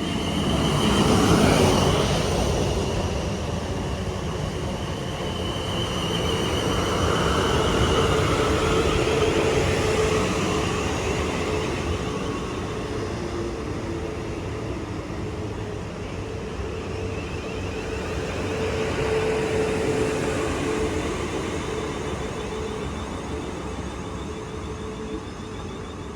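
Passenger train running through the station, its noise swelling and fading more than once, with a steady tone running through it.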